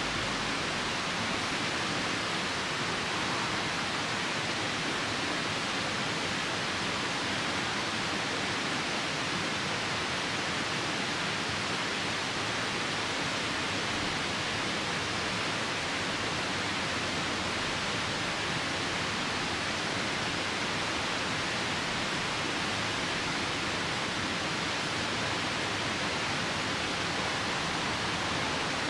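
Nearby river rushing steadily, with rain falling, an even hiss that does not change.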